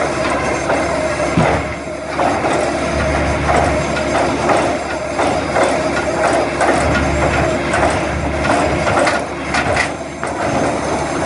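Mobile log debarking machine running, stripping bark from a log: a steady low machine hum under a dense, irregular clatter of knocks.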